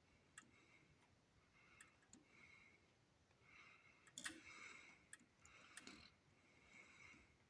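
Near silence with a few faint scattered clicks over a soft hiss that rises and falls.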